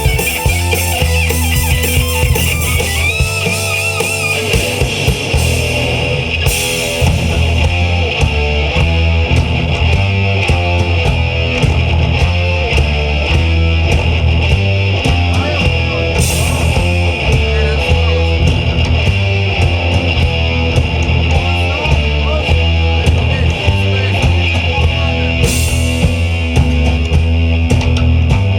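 Rock band playing live: electric guitars, bass guitar and drum kit at full volume, with three cymbal crashes about ten seconds apart.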